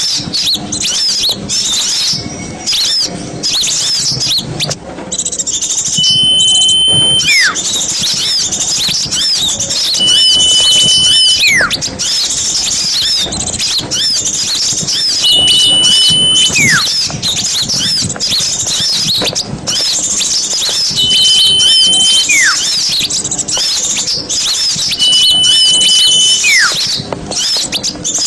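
Dense chattering of many small songbirds, with a clear whistled call repeating about every four to five seconds: a held note followed by a quick downward slur.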